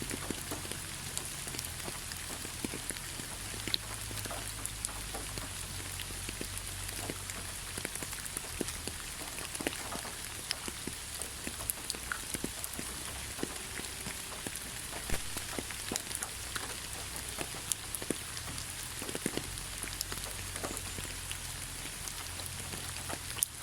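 Heavy rain falling steadily, a constant hiss with the scattered sharp pattering of individual drops striking a surface.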